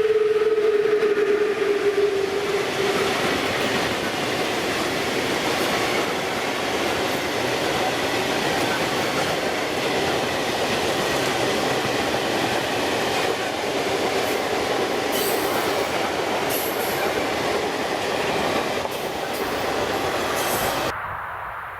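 A freight train of open coal wagons rolls steadily past on the rails, with a whining tone early on that fades out within the first few seconds. The sound drops suddenly near the end.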